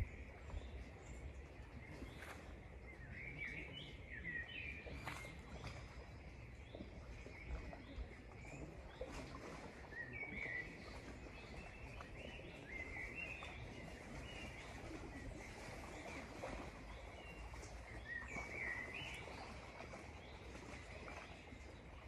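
Songbirds singing: short, high chirping phrases that come every few seconds over a steady low background rumble.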